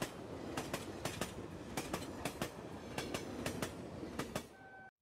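Vande Bharat Express electric multiple-unit train passing close by at speed: a steady rumble with rapid, irregular clacks of the wheels over the rail joints. A brief steady tone sounds near the end, just before the sound cuts off suddenly.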